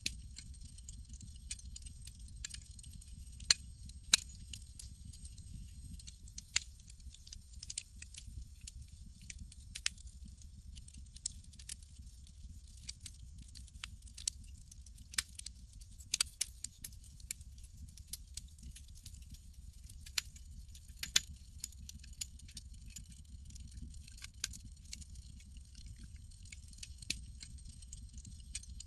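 Campfire crackling: irregular sharp pops and snaps at uneven intervals over a low steady rumble, with a few louder pops scattered through.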